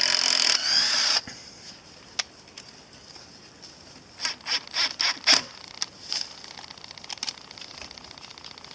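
Cordless impact tool running on a tek screw, stopping about a second in, followed by several sharp clicks and knocks about halfway through.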